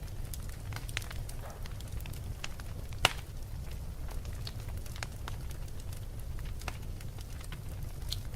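Wood fire crackling: a steady low rumble with irregular sharp pops and snaps, one louder pop about three seconds in.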